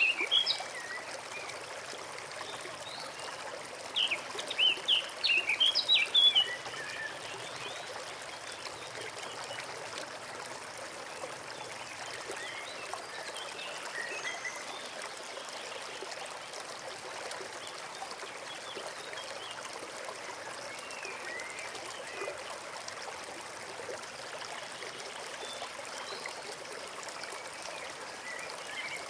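Small forest stream trickling steadily over stones. A songbird sings a quick run of high chirps about four seconds in, the loudest thing here, with fainter scattered bird calls later.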